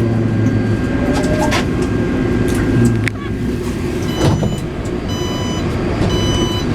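Taipei Metro C381 train with modified propulsion software running between stations, heard from inside the car: a steady rumble and hum with a few light knocks. Two short high electronic beeps sound near the end.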